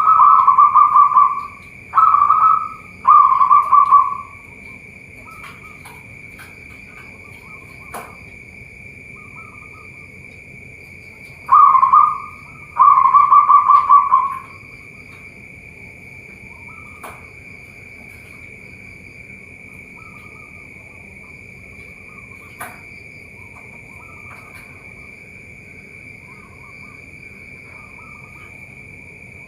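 Zebra doves (perkutut) cooing: a loud run of rapid, fluttering coos in a few short phrases, a pause, then another bout about halfway through, with fainter coos from other doves in between.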